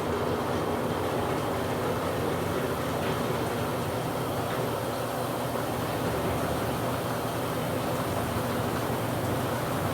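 Two washing machines running at the same time, a steady, even whir of motors and tubs.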